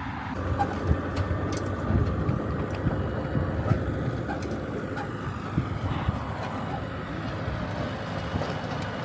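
A motor vehicle running with a steady low rumble, as on a wagon ride, with scattered clicks and rattles.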